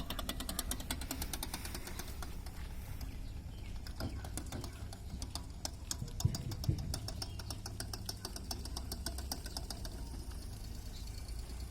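Car engine running with a fast, even ticking over a low rumble; two short thumps about six seconds in.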